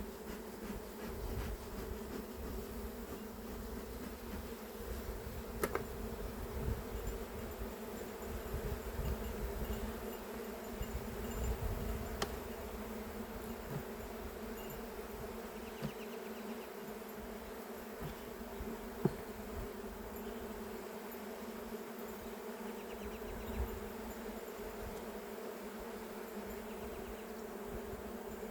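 Honeybee colony buzzing steadily from an opened hive, a continuous hum with a few brief clicks scattered through it.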